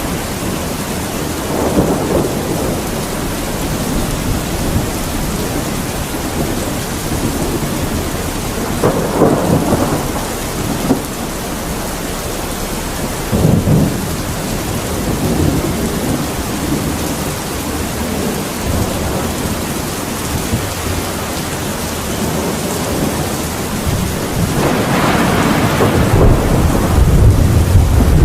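Steady heavy rain with rumbles of thunder rolling in several times, the longest and loudest building near the end.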